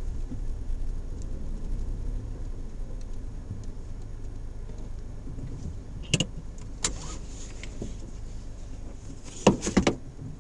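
Suzuki Jimny JB64 driving slowly on a forest road, its engine and tyres a low steady rumble. Two sharp knocks come about two-thirds of the way through, and a quick cluster of louder knocks near the end.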